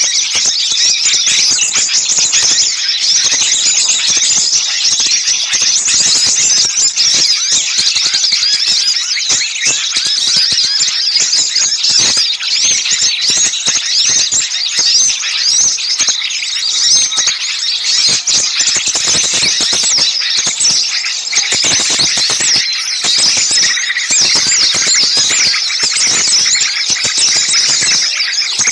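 Dense chorus of many small songbirds giving agitated scolding and alarm calls at once, a continuous high, rapid chattering with no pauses. It is the kind of mobbing racket used as a bird-lure call to draw small birds in.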